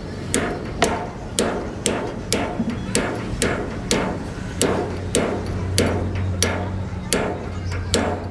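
Hammer blows on metal at a steady rhythm of about two strikes a second, each with a short ring, over a steady low hum.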